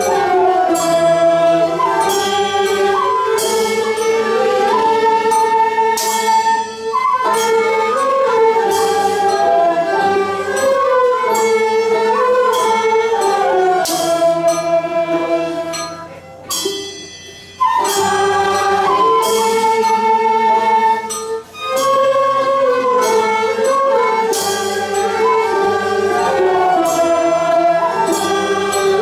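Nanguan ensemble music: held, bending melodic lines over plucked strings, punctuated by sharp percussive strikes every second or two. The music thins out briefly just past the middle, then picks up again.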